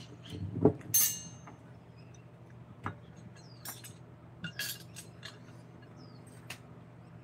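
Scattered light knocks and clinks, as of hard tools being handled and set down; one sharper, ringing clink about a second in, with a few smaller clicks spread through the rest. A steady low hum runs underneath.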